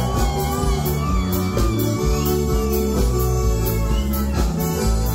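Band music playing an instrumental passage without singing: steady bass notes under a regular drum beat, with a gliding melody line on top.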